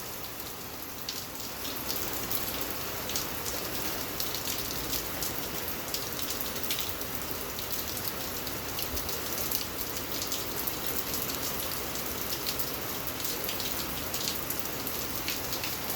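Steady heavy rain falling, with the separate clicks of many drops striking close by.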